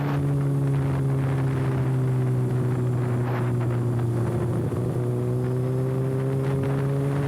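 Kawasaki ZX-6R inline-four running with its exhaust canister removed, holding a nearly steady engine speed on the move. The pitch dips slightly, then climbs gently from about halfway through.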